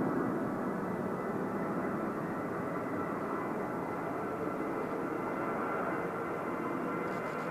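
Jet engines of a Boeing 737-700 (CFM56-7B) running: a steady rush with a thin, steady whine above it, easing slightly in level.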